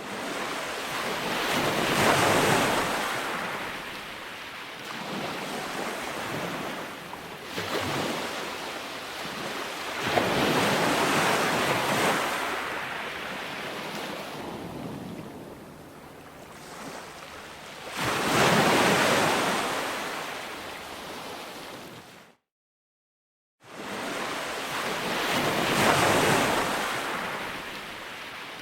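Calm ocean waves breaking and washing up a sandy beach, in slow surges that rise and fall every several seconds. The sound cuts out completely for about a second, two-thirds of the way through, then comes back.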